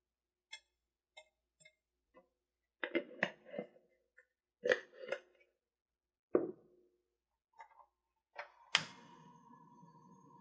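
Kitchenware being handled during cooking prep: scattered light clicks and knocks, then near the end a sharp strike on a kitchen vessel that keeps ringing with a steady tone.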